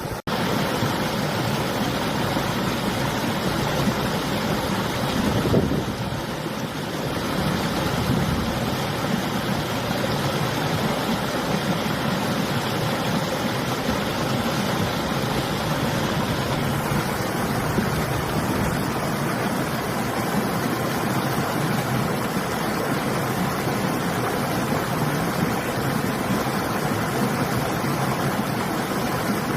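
Steady rush of flowing river water mixed with winter wind, an even noise without rhythm, after a momentary dropout at the very start.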